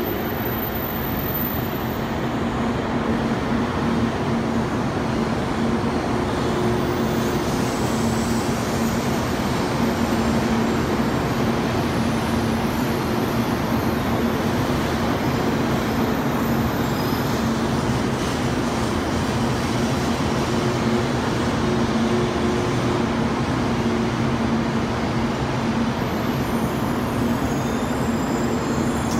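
Kyushu Shinkansen 800 series train pulling slowly into a station platform: steady rolling noise with a low, even hum from the train.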